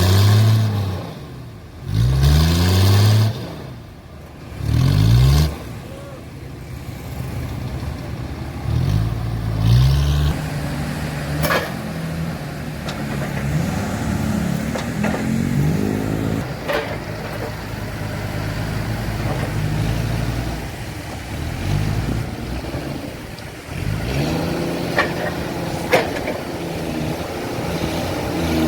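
Heavy machinery engine revving up and down again and again, with a steadier run through the middle and a few sharp knocks.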